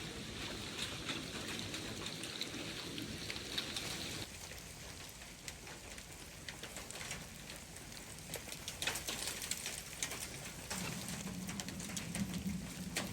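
Melting ice and meltwater falling from tree branches onto a roof: an irregular patter of drops and sharper ticks, like light rain. The patter thins after about four seconds, and a low steady hum comes in near the end.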